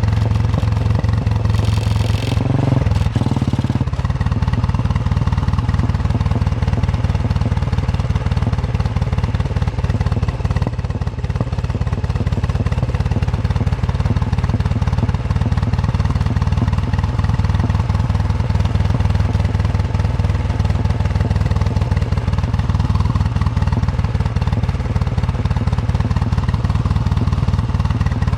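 Royal Enfield Bullet 350's single-cylinder engine thumping steadily under way, with a brief hiss about two seconds in.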